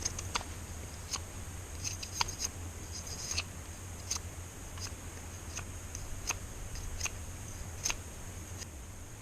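A string of about a dozen irregular sharp clicks and light taps over a steady high-pitched hiss.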